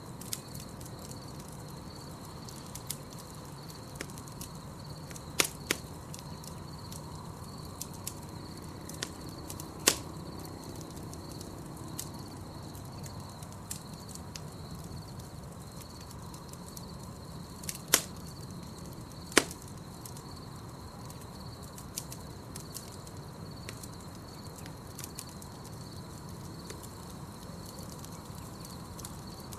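Campfire crackling: a steady low rush of burning wood with scattered sharp pops and snaps, four of them much louder than the rest. Under it runs a steady, evenly pulsing high trill of night insects.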